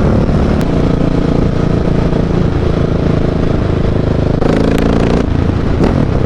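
Husqvarna 701's single-cylinder engine running under way through an aftermarket Mivv exhaust, loud and steady, with a short change in the engine note about four and a half seconds in.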